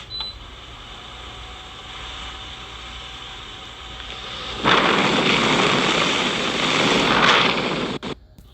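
Keystone evaporative air cooler's fan running on medium speed, a steady rush of air. About halfway through it suddenly gets much louder as the airflow blows straight onto the microphone, then drops back shortly before the end. A short beep sounds at the very start.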